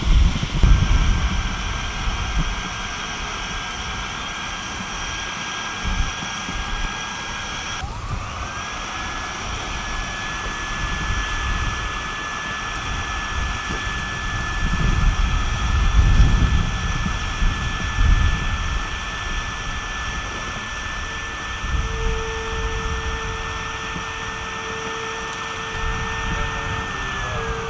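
Electric tent air pump running with a steady high motor whine. It cuts out about eight seconds in, spins back up and runs on, then winds down near the end, over low gusty wind rumble.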